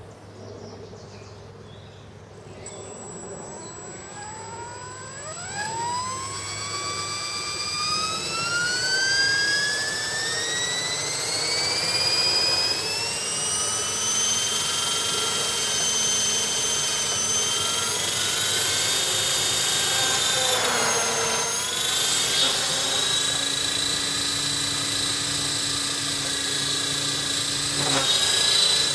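Blade 400 electric RC helicopter's motor and rotor spooling up: a whine rising in pitch over about eight seconds, then running at a steady high whine. The pitch dips briefly about twenty seconds in.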